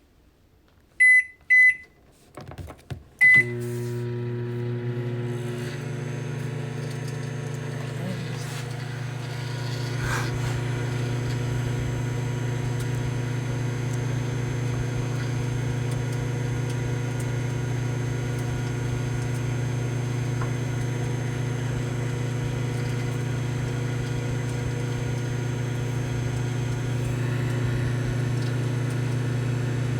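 Microwave oven keypad beeping twice, a few soft thuds, and a third beep as it starts, then the oven running with a steady low hum.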